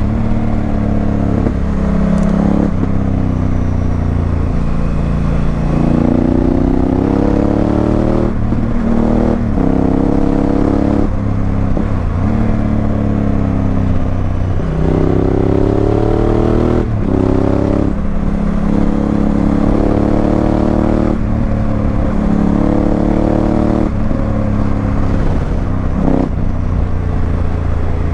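Honda Africa Twin CRF1000L's 998 cc parallel-twin engine through a Remus aftermarket exhaust, pulling up through the gears. The pitch rises with each pull and drops sharply at each gearchange, over and over, with spells of easing off between.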